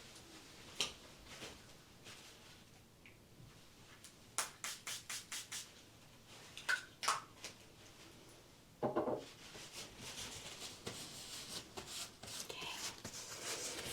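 Light hand-handling sounds: scattered soft clicks, a quick run of about six short crisp bursts, a heavier soft thud, then continuous light rustling.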